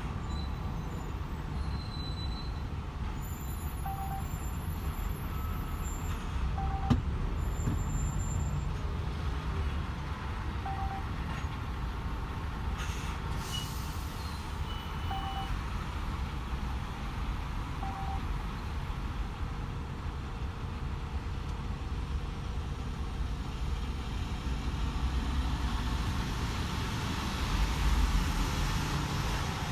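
DAF XF 510 truck cruising on the motorway: a steady low rumble of engine and tyre noise, with several short faint electronic beeps spread through it.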